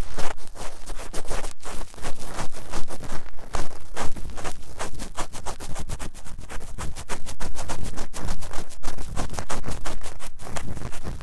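Fast, vigorous scratching of an ear-cleaning tool inside the silicone ear of a 3Dio binaural microphone: close, loud, rapid strokes several times a second.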